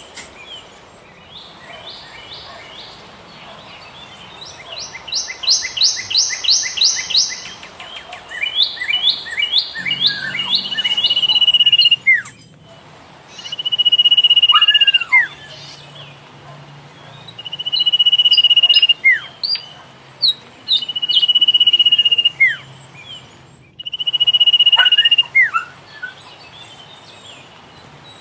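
Philippine pied fantail calling: a fast run of short repeated chirps, then a series of long, level whistles, each about a second and a half long and repeated every three to four seconds, some ending in a short falling slur.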